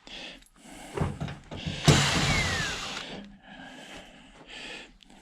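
Handling noise from taking apart a metal appliance: scattered knocks, then a loud sharp clank about two seconds in, followed by about a second of scraping with a falling ring, then softer rustling.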